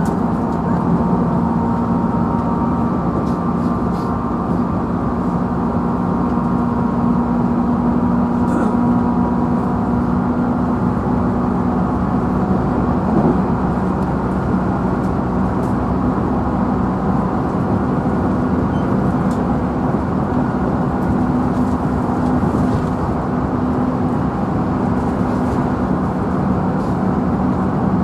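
Running noise inside a JR Central 311 series electric multiple unit motor car at steady speed: a constant rumble of wheels on rail under a traction-motor hum that holds one pitch.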